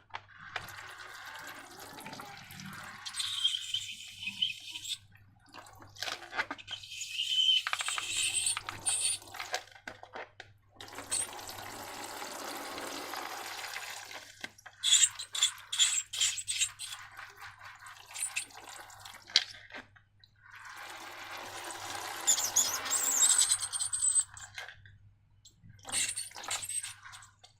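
Liquid slime ingredients pouring out of balloons into a container in several separate goes, some as a smooth steady pour, others broken into many small wet clicks and drips.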